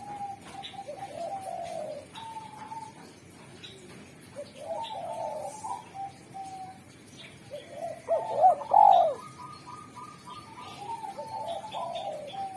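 Spotted dove cooing in four repeated phrases of low, wavering coos, the third phrase the loudest. Faint short chirps run high above it.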